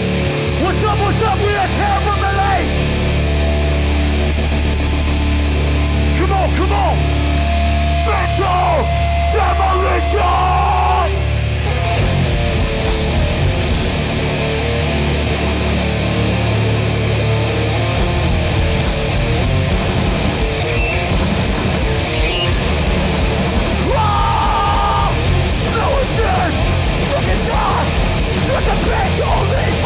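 Live hardcore punk band playing loud through a PA. A held low guitar-and-bass drone with gliding, squealing guitar notes gives way about twelve seconds in to the full band with drums, and shouted vocals.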